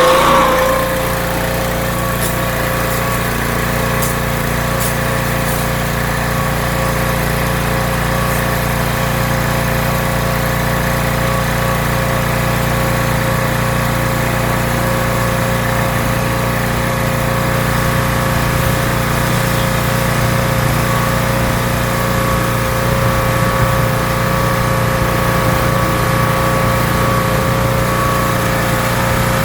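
Pressure washer's small gasoline engine running at a steady speed just after being started, settling from a slightly louder, rising note in the first second.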